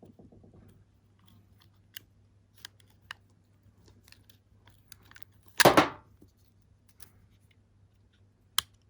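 Scattered small clicks of handling a plastic terminal block strip, then one loud sharp snap about five and a half seconds in as the strip is cut down to three connections.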